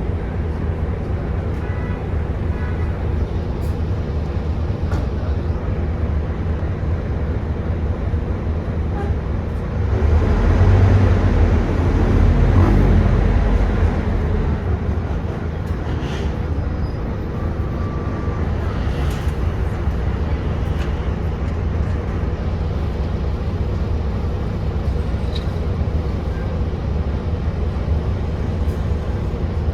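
Volvo B9TL double-decker bus running under way, heard from inside the passenger saloon: a steady hoovering drone. It swells louder for about four seconds a third of the way in, then settles back to a steady run.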